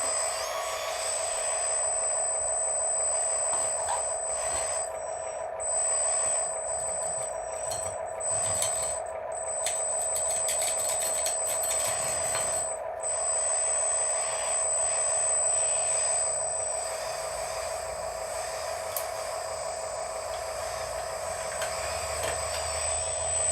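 Small electric hydraulic pump of an RC excavator whining at a steady pitch while the machine works, the level rising and falling slightly with the load.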